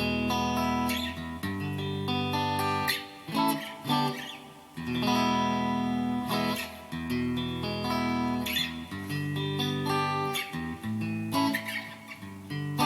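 Donner DST-200 electric guitar played with the pickup selector in position 4, the neck and middle pickups together. It plays a passage of chords and picked notes, with short breaks about a third of the way in and again near the end.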